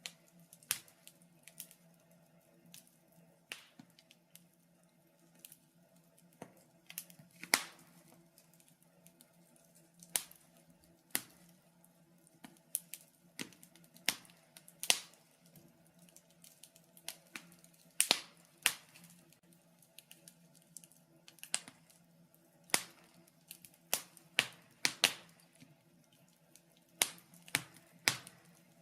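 Wood fire in a fireplace crackling: irregular sharp pops and snaps, some single and some in quick clusters, a few louder than the rest.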